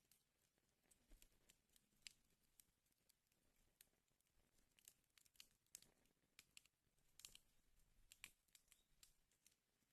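Wood fire in a fireplace crackling faintly: irregular sharp pops and snaps, a few each second, over a soft hiss.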